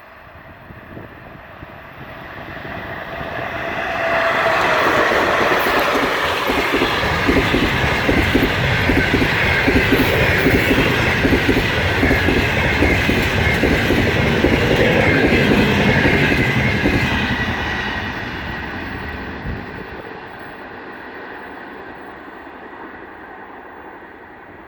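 A train passing at speed: the sound builds over a couple of seconds, then the wheels clatter over rail joints for about a dozen seconds before it fades away.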